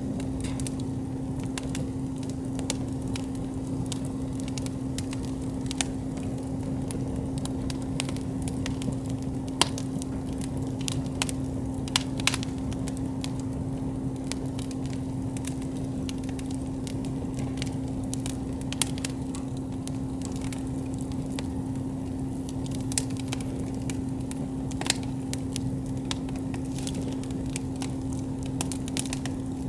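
Wood campfire burning and crackling, with irregular sharp pops scattered throughout and a few louder snaps, over a steady low hum.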